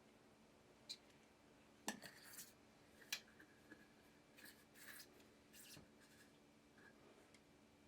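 Scissors snipping: a handful of short, sharp cuts spread over several seconds, the loudest about two and three seconds in.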